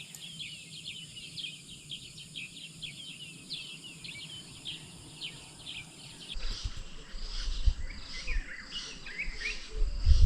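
Wild birds chirping with many quick, short calls. About six seconds in the sound changes to fewer, scattered calls over a low rumble of wind on the microphone.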